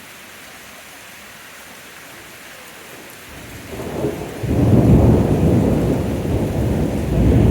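Steady rain hissing, then a little over three seconds in, thunder begins to rumble and swells into a long, loud, deep rolling rumble from a storm overhead.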